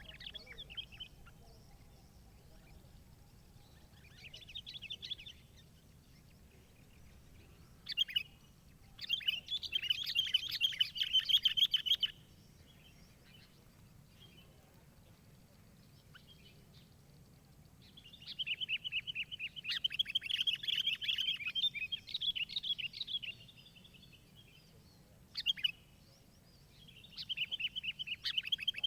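A small songbird singing in bursts of rapid, high chattering phrases, the longest lasting three to five seconds, with pauses of several seconds between them.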